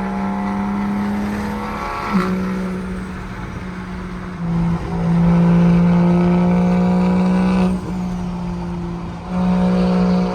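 Straight-piped, single-turbo BMW 335is N54 inline-six running at a steady cruise, its exhaust drone holding one pitch. The drone eases off about two seconds in, swells louder from about halfway through, drops back near eight seconds and comes up again near the end as the throttle is lifted and reapplied.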